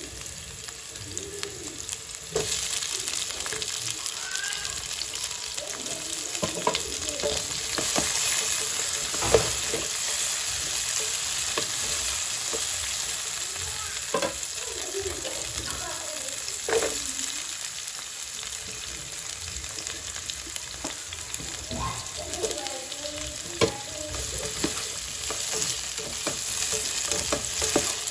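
Sliced onions, tomatoes and carrots sizzling in hot oil in a non-stick frying pan, a steady hiss that grows a little louder a couple of seconds in. A few sharp knocks and scrapes of the stirring come through over it.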